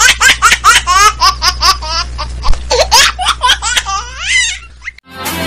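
A person laughing loudly and heartily in fast repeated ha-ha pulses, trailing off with a rising squeal about four and a half seconds in. Music starts just before the end.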